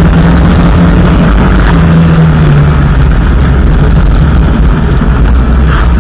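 Turbocharged four-cylinder engine of a Mitsubishi Lancer EX turbo running hard at steady high revs, heard from inside the car, over a constant rumble of tyres on loose gravel.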